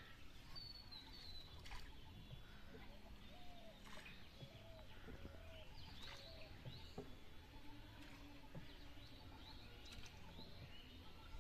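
Faint outdoor ambience with distant birds calling: a couple of short high chirps, then a series of short, evenly repeated low notes, over a steady low hiss.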